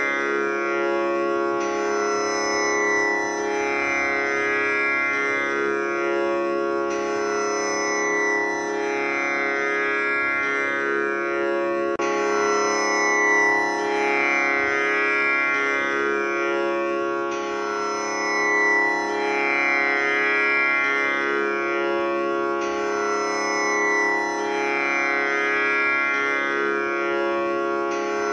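Tanpura drone tuned to C#, its strings plucked in a steady repeating cycle about every five seconds, the tones sustaining and overlapping with a rich buzzing shimmer of overtones.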